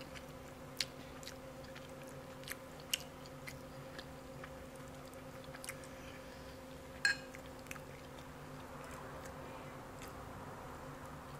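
Close-miked chewing and mouth sounds of a person eating, with scattered sharp clicks, the loudest about seven seconds in, over a steady low hum.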